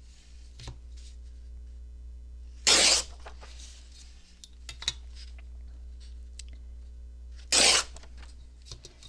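Paper being torn by hand: two short tears about five seconds apart, with faint clicks and taps of paper handling in between.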